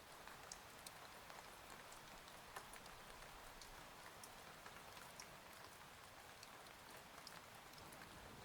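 Faint, steady rain, with scattered individual drops ticking sharply through it.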